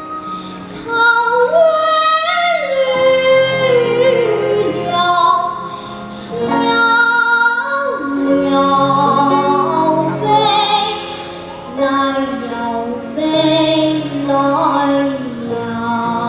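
A young girl singing a Chinese folk song solo, with long held and gliding notes and some vibrato, over an instrumental accompaniment.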